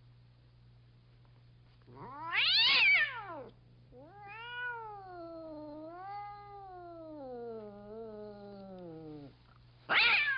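Cartoon cat meowing: a loud rising-and-falling yowl about two seconds in, then a long wavering meow that slides down in pitch, and the start of another loud yowl at the very end.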